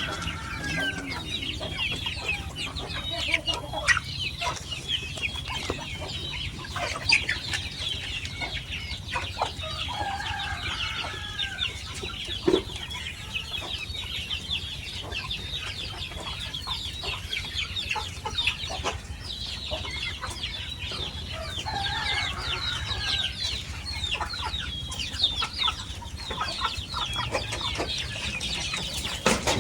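A flock of Indonesian village chickens (ayam kampung) clucking and calling, with a steady chatter of many short high-pitched calls, a few lower, louder calls now and then, and scattered sharp clicks.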